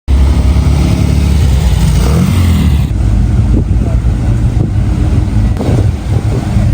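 Car engine running, with a rise in revs about two seconds in.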